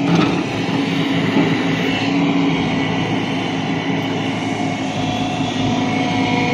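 JCB 3DX backhoe loader's diesel engine running with a steady, even drone.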